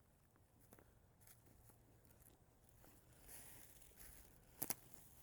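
Near silence with faint footsteps and rustling in the undergrowth, and two sharp clicks close together near the end.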